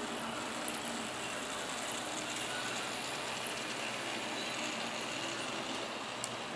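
Bemo model train of the Rhaetian Railway running on the layout's track: a steady small-motor hum and wheel noise, with a couple of light clicks from the rail joints.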